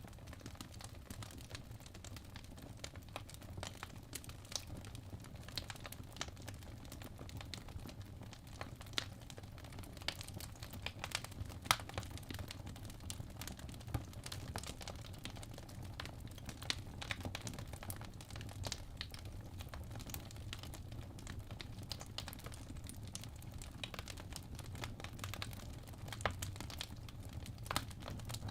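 Fireplace crackling: irregular small pops and snaps over a low steady rumble.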